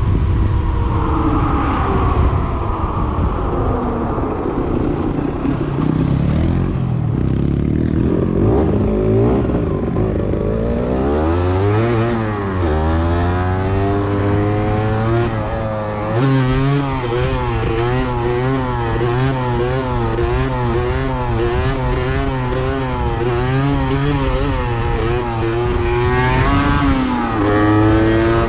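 A 125 cc enduro motorcycle engine being ridden hard. The revs fall early on, climb again about ten seconds in, then hold with a wavering pitch before rising once more near the end.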